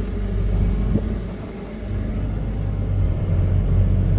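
Combine harvester running at work, a steady low engine and machinery rumble heard from inside the cab, growing a little louder about two seconds in.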